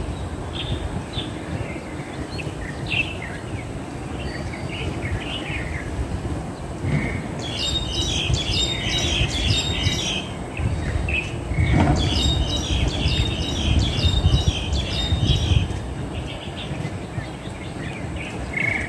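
Crested mynas calling: scattered short chirps throughout, with two dense bouts of rapid chattering calls, one about eight seconds in and a longer one from about twelve to fifteen seconds, over a steady low rumble of background noise.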